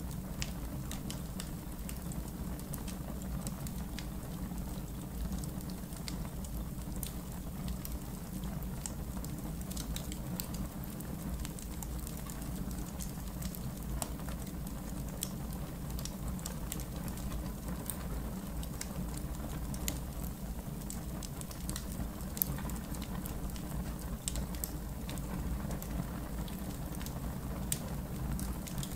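Wood fire in a backyard fire pit crackling: many irregular sharp pops and snaps over a steady low rumble.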